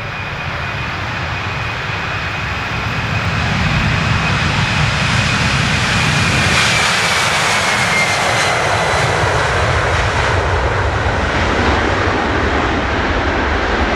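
Boeing 767 freighter's twin turbofan engines at takeoff power: a loud roar that builds over the first few seconds and then holds, with a high fan whine that drops in pitch about seven seconds in as the jet passes.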